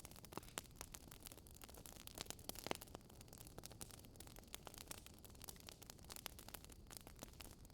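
Faint crackling fire: irregular small pops and snaps over a soft hiss.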